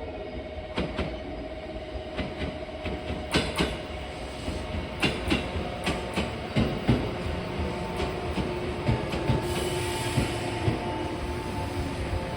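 Train wheels clicking over rail joints and points, a quick irregular run of clacks over the steady hum of the running train.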